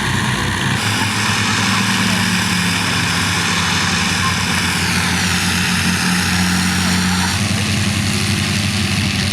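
Avro Lancaster's four Rolls-Royce Merlin piston engines running as the bomber taxis, a loud, steady propeller-engine drone whose note shifts abruptly about a second in and again near the end.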